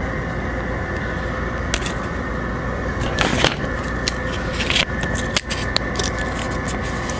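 Pokémon trading cards being handled and flipped through: scattered short rustles and clicks, with one longer rustle about three seconds in, over a steady background hum.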